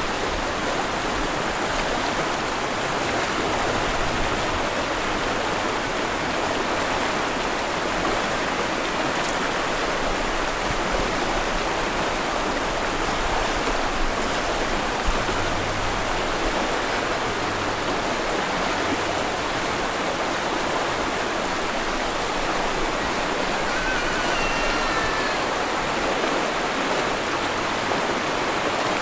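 Steady rushing water of Minnehaha Creek below the falls, an even, unbroken hiss of flowing water.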